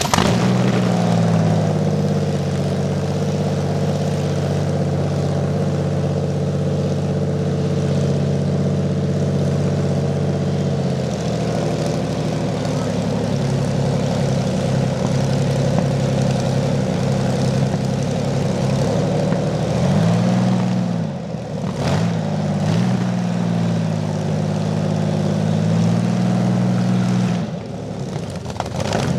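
Rolls-Royce/Rover Meteor V12 petrol tank engine running steadily. Its revs dip and pick up again twice about two-thirds of the way through, and it dips briefly once more near the end.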